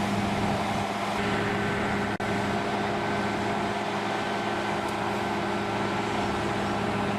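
Heavy machine's engine running steadily, a constant low drone. A higher steady tone joins about a second in, and the sound drops out for an instant about two seconds in.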